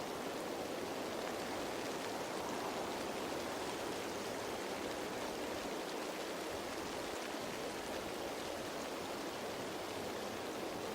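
Steady rain falling on leaves, an even hiss of many drops with faint fine pattering on top.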